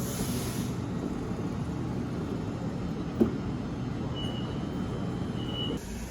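Electric passenger train rumbling steadily at the station, with a brief air hiss at the start and a single knock about three seconds in. A thin high tone sounds for about a second and a half near the end, just before the rumble drops away.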